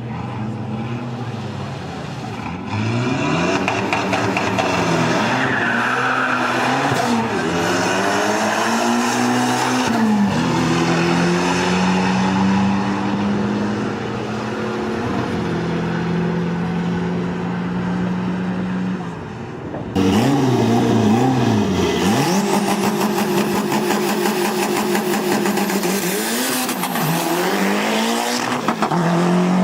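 Tuned performance-car engine run hard, its pitch climbing and dropping sharply again and again as it revs and shifts. The sound switches abruptly about twenty seconds in to another run of hard revving.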